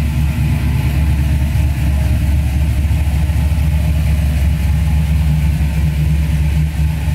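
1967 Chevrolet Camaro SS's 350 V8 idling steadily.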